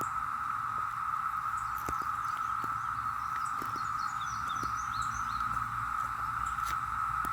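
A chorus of cicadas, a steady unbroken drone at one high pitch. Faint bird chirps come and go in the middle.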